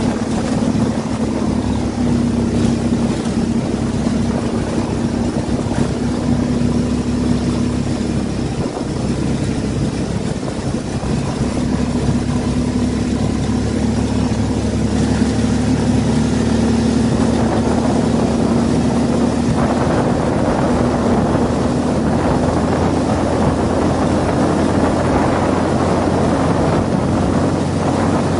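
Engine of a Tornado 260 cc buggy running with a steady note, dipping briefly about nine seconds in.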